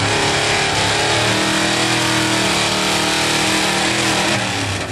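Loud pulling-truck engine running hard at high revs, holding a fairly steady pitch, with a brief dip near the end.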